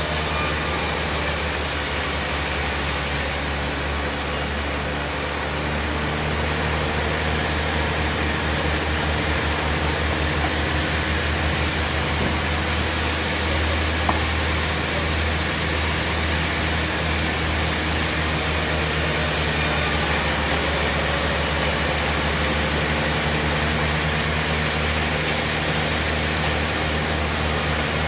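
Band sawmill running: a steady mechanical drone with a constant low hum and a wide noisy wash, unbroken throughout.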